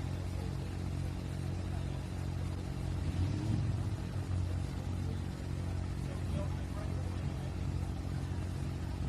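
Turbocharged 680-cubic-inch engine of a John Deere 7820 pro stock pulling tractor idling with a steady low rumble, with a brief rev about three seconds in, as the tractor backs up to the sled.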